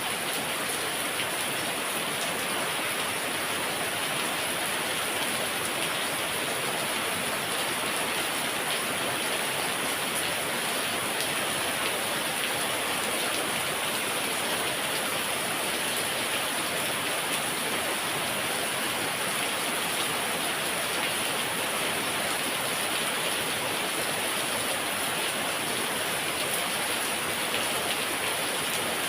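Heavy rain falling steadily: a dense, even hiss of water with no letting up.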